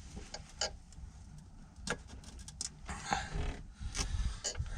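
Scattered light clicks and taps of engine parts being handled as a piston is worked up its bore, with a low rumble of handling noise building in the second half.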